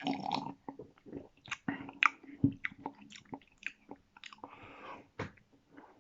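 Close-up mouth sounds of a person chewing and tasting: irregular wet clicks and lip smacks.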